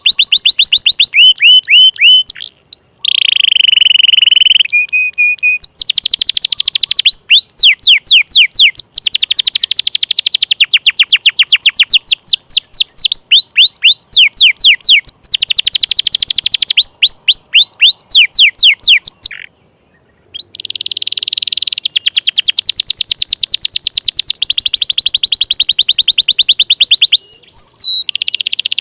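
Domestic canary singing: long, loud trills, each a fast run of repeated sweeping notes, changing phrase every second or two, with one held whistle-like note early on. The song breaks off for about a second two-thirds of the way through, then starts again.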